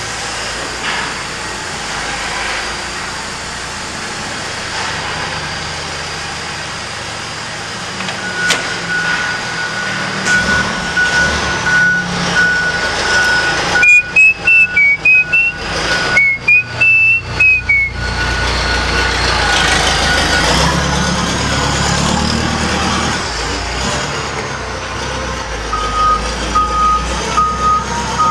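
Heavy vehicle's engine running with its backup alarm beeping in a steady repeating pattern, starting about a third of the way in; the engine rumble grows louder past the middle and the beeping comes again near the end.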